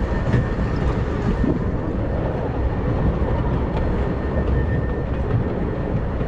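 Miniature steam train running along its track: a steady rumble of wheels on rails with a few faint ticks.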